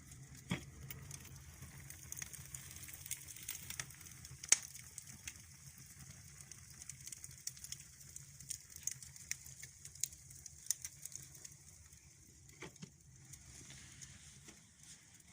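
Wood fire crackling in the firebox of a brick stove-fireplace, burning well: scattered sharp pops and snaps over a faint low steady hum, with one loud pop about four and a half seconds in.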